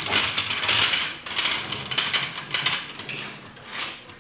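A ratchet wrench worked in a run of short, clicking strokes on a bolt of a 1968 Camaro being taken apart; the strokes grow fainter toward the end.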